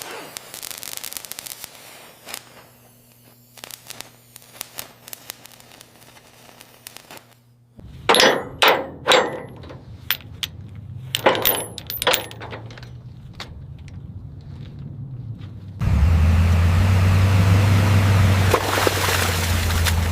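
Scattered metallic clicks, then a run of loud sharp clinks and knocks of metal on metal, as of tools and parts being handled. About four seconds before the end, a steady low drone like an engine running starts abruptly.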